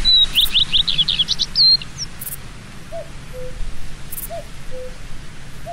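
Birdsong over a steady hiss: a quick run of high chirping notes in the first two seconds, then a lower two-note call, a higher note followed by a lower one, repeated about every second and a half.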